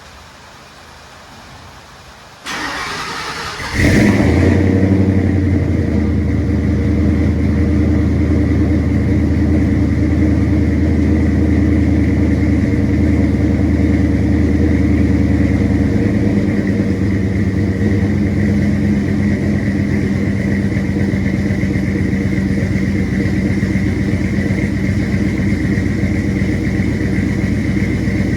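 A vehicle engine is cranked by its starter for about a second, catches, and then idles steadily, dropping to a slightly lower idle about twelve seconds later, with a faint high whine running alongside.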